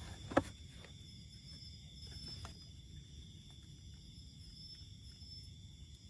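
Steady high-pitched insect drone, with one sharp knock about half a second in and a fainter tap a couple of seconds later.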